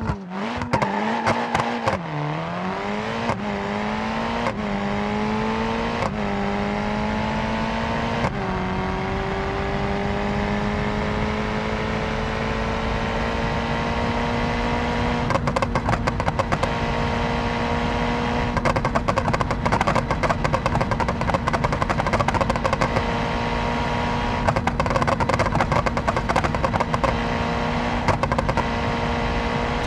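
Rally car engine and exhaust running at high revs. The pitch dips and climbs back in several steps over the first eight seconds, then holds almost steady, with a rattle of sharp pops through the second half.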